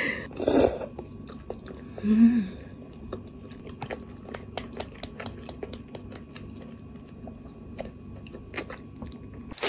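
Close-miked eating of jajangmyeon noodles: a brief slurp as the mouthful goes in near the start, a short hummed "mm" about two seconds in, then soft, wet chewing clicks.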